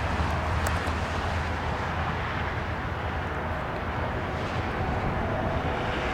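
Jet airliner engines heard as a steady rumble and roar, holding an even level without rising or fading.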